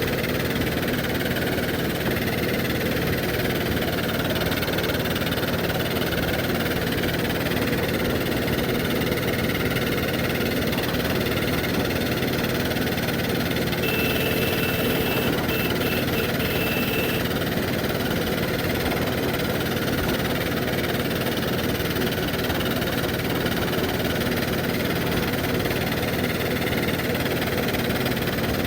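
Engine of an old 1969 Zetor tractor running steadily with an even diesel beat.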